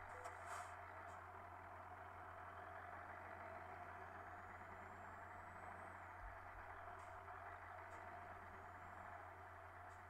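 Faint, steady running noise of a Scania R560 truck on the move, with a few light ticks.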